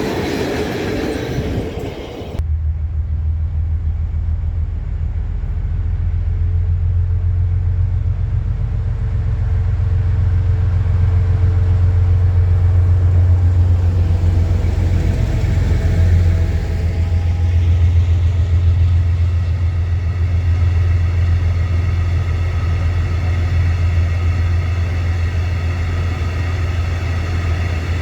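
Train running: a brief noisy passage, then after a sudden change a steady low rumble, with a higher whine of several tones coming in about halfway through.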